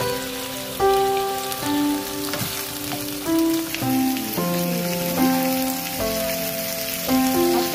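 Sliced carrots and onions sizzling as they stir-fry in oil in a wok, a steady crackling hiss, under background music with a slow melody of held notes.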